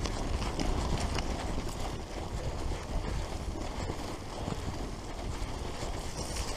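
Start Shosse road bike ridden over a rough, snowy forest trail: tyre rumble with steady small rattles and knocks from the frame and parts, and wind buffeting the microphone.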